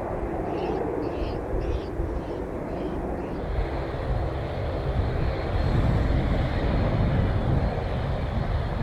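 Airplane engines running, growing louder about halfway through, with a steady high whine coming in about three seconds in.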